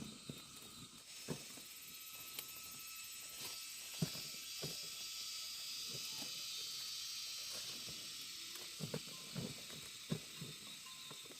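Scattered snaps and rustles of corn ears being broken off the stalks, with a cluster of snaps near the end, over a steady high hiss.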